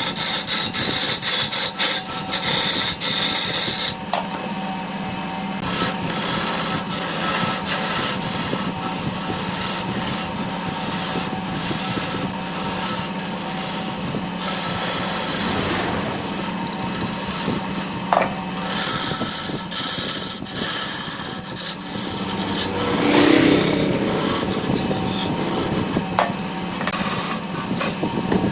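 Large wood lathe running with a steady hum while a turning tool cuts into the spinning wood in repeated rasping passes, each lasting about half a second to two seconds.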